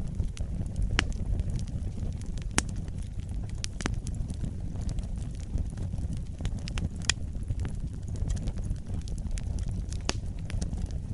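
Wood fire burning in a fireplace, crackling with irregular sharp pops over a low steady rumble of the flames; a few louder pops come about two and a half, seven and ten seconds in.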